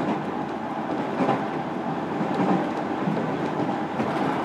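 Running noise of a JR Kyushu 305 series electric train heard inside a motor car: a steady rumble of wheels on rail, with a few faint clicks from the track.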